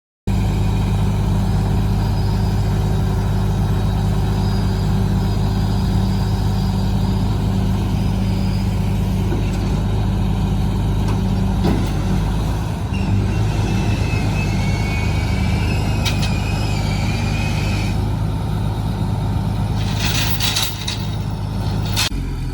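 Tow truck's engine running steadily at idle, its low hum shifting about halfway through, with a few sharp metallic clanks near the end.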